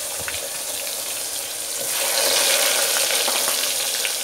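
Chopped onions sizzling in hot mustard oil in an aluminium pot: a steady frying hiss that swells louder about two seconds in.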